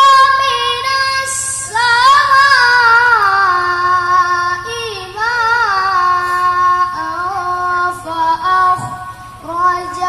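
A single male reciter's voice chanting Quran in melodic tilawah style, drawing out and ornamenting long vowels with winding melismatic runs that rise and fall in pitch. There are brief breaks for breath.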